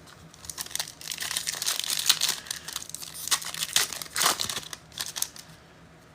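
Foil trading-card pack wrapper crinkling and rustling in the hands as a pack is torn open, in an irregular run of crackles that dies down near the end.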